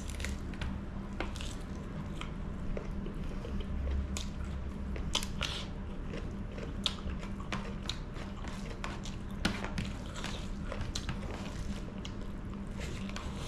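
A person biting into and chewing a piece of chicken curry, with many short wet mouth clicks and smacks scattered irregularly over a steady low hum.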